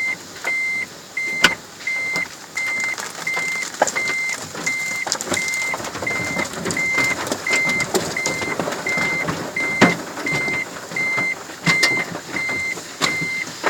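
Automatic car wash equipment heard from inside the car: water and machinery rushing against the body, with a high electronic beep repeating about every 0.7 seconds and a few sharp knocks.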